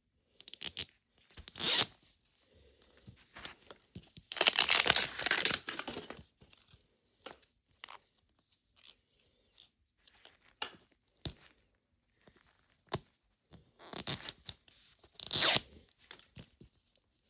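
Plastic wrapping of a Mini Brands Fill the Fridge capsule being torn and crinkled in several bursts, with a few sharp plastic clicks.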